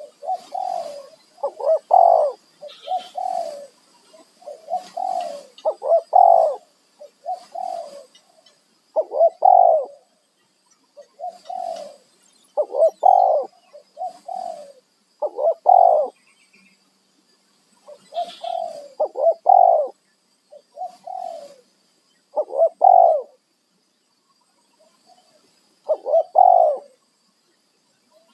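Spotted doves cooing, a string of short phrases of a few coos each, one after another with brief pauses between.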